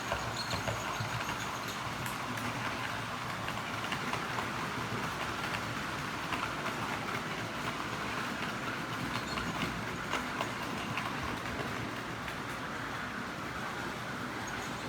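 HO-scale model train running along the track: a steady motor whir and wheel noise with small irregular clicks from the wheels over rail joints.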